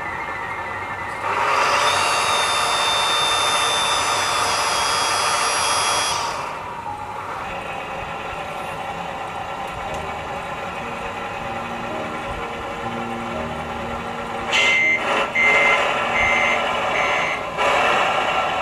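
Scale RC model truck running, with a loud whirring hiss for about five seconds early on, then a steady hum. Near the end its reversing beeper sounds about five times.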